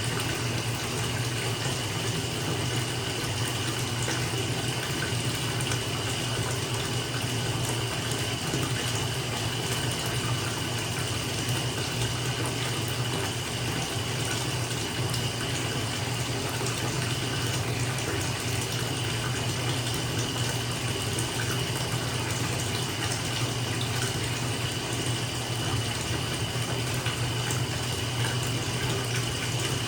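Bathtub tap running steadily into a filling tub, water splashing into the bathwater.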